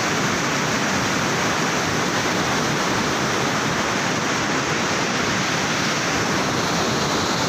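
Steady rush of fast-flowing floodwater, a rain-swollen drain running full.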